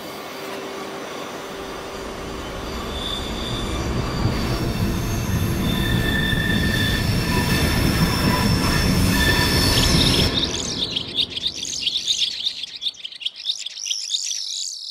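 A train rolling in, its rumble growing louder over the first ten seconds with steady high-pitched wheel squeal. The rumble stops about ten seconds in, leaving only high wavering squeal tones.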